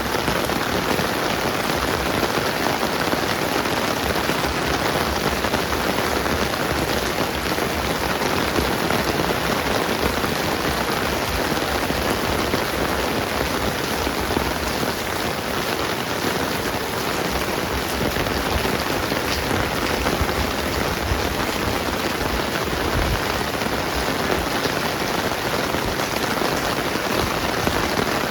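Steady rain falling on wet ground and surfaces, an even, dense hiss that does not let up.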